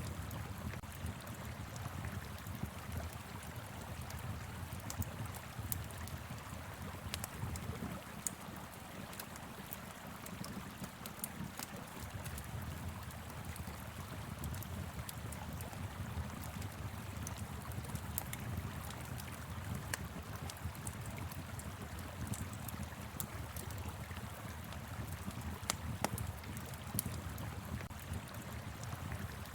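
Wood fire crackling with scattered sharp pops over the steady rush of a flowing river, with a low wind rumble underneath.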